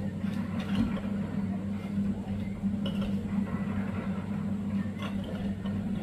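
A steady mechanical hum from a running motor, with a few light clicks; it cuts off suddenly near the end.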